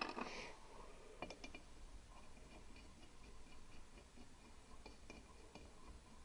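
Light handling noises: a short clatter at the start, a few sharp ticks a little over a second in, then scattered faint clicks, over low room hum.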